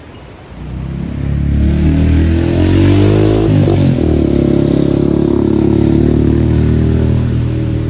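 Single-cylinder motorcycle engine, a Suzuki VanVan 200, pulling away. The revs climb, drop at a gear change about three and a half seconds in, then hold steady as it rides on.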